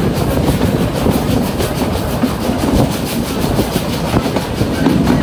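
Vintage wooden passenger train running along the track, heard from an open carriage window: a steady rumble with a rhythmic clickety-clack of wheels over the rails.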